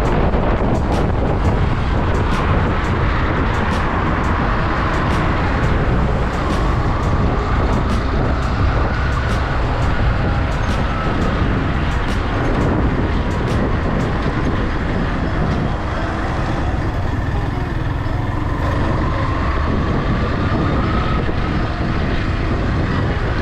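Motorcycle running on the road while being ridden, with steady engine and road noise. The engine pitch rises and falls slowly a few times as speed changes.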